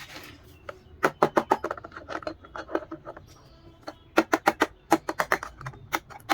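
Quick runs of sharp clicks and taps from small plastic toy dollhouse pieces being handled, starting about a second in.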